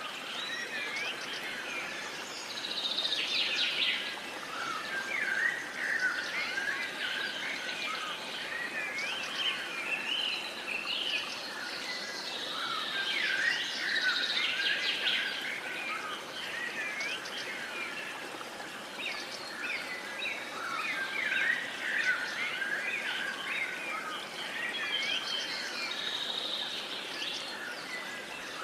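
A chorus of many birds singing and calling at once: dense overlapping chirps and short whistles sliding up and down, over a soft steady hiss.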